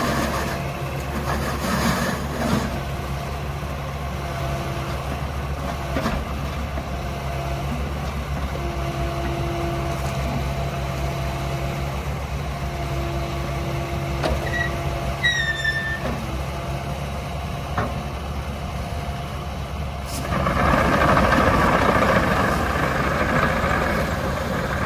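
Diesel engine of a Kubota KX080-4A2 tracked excavator running at a steady idle, with a few light clicks and a short falling squeak midway. About 20 seconds in it gets louder and fuller, as when the throttle is raised or the hydraulics take load.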